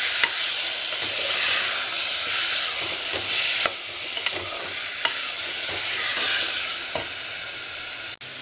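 Chopped vegetables sizzling in hot oil in an aluminium pressure cooker as they are stirred with a metal spoon: a steady sizzle with a few light clicks of the spoon against the pot. The sound cuts off suddenly just before the end.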